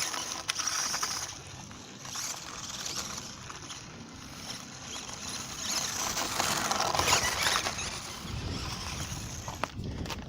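Toy-grade NQD RC monster truck driving: the small electric drivetrain and tyres on the ground make a rough, uneven noise with scattered clicks, louder around the middle to late part.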